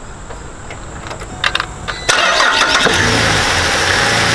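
A few clicks, then about two seconds in the Holden Commodore's 3.6L Alloytec V6 is cranked over by the starter and catches within about a second, settling into steady running. This is the test start after the alternator replacement.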